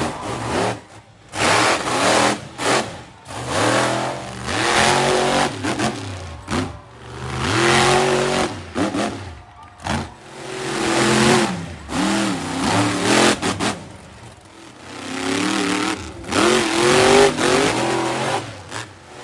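Monster truck engine revving hard in repeated bursts, its pitch climbing and falling with the throttle, with short breaks between runs.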